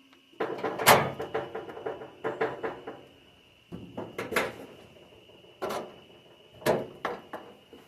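Irregular knocks and clatters in several short clusters, like things being handled and set down, over a faint steady high-pitched whine.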